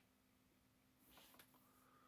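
Near silence: room tone, with a faint brief rustle and two small clicks about a second in, from a small die-cast model car being handled.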